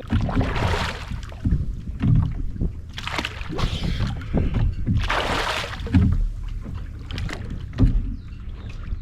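Sounds of a kayak out on the water: three swells of rushing noise, with a few low knocks between them.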